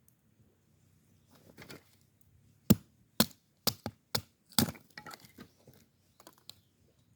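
Dry wood cracking: a quick run of about eight sharp cracks and knocks, the first one the loudest, then a few smaller ones trailing off.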